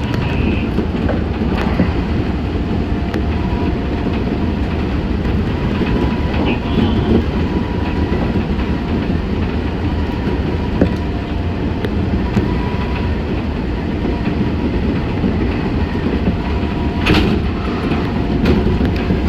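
Meitetsu 6500 series electric train running, heard from inside the car: a steady rumble of wheels on rail with faint steady motor tones and a few sharp clicks from rail joints.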